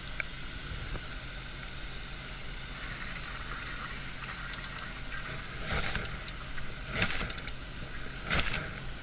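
A steady engine running with a hiss, with three sharp knocks, louder than the background, in the second half: about two thirds of the way in, a little later, and near the end.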